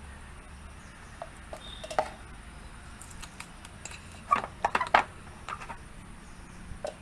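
A spoon tapping and clinking against a bowl or container while ground pepper is spooned out. A few scattered light taps come first, then a quick run of louder knocks about four to five seconds in.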